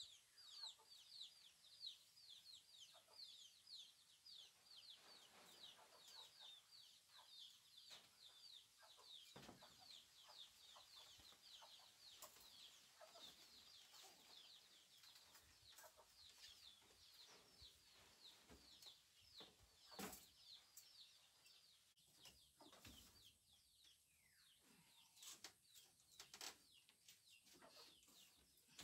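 Faint bird chirping: a long run of quick falling peeps, several a second, that fades out a little past halfway. Light knocks and clicks are scattered through, the sharpest about two-thirds in.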